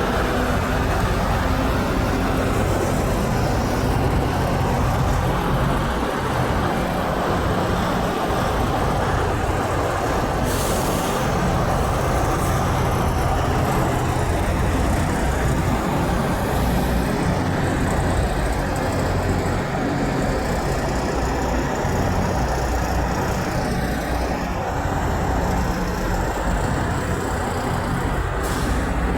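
Heavy road traffic with semi trucks going by: a steady wash of diesel engine and tyre noise, with no horn sounding.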